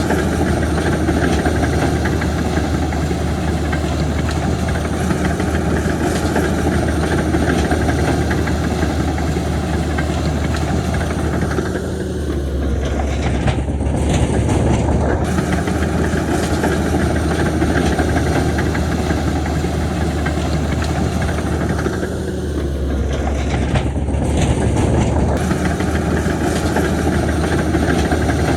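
Heavy diesel construction machinery running steadily, a continuous loud engine drone with a deep steady hum underneath.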